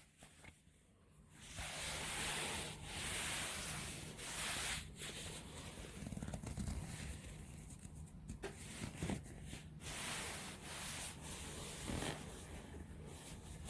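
Fabric of a fitted bed sheet being rubbed and handled, an uneven rustling hiss in irregular strokes that starts about a second and a half in.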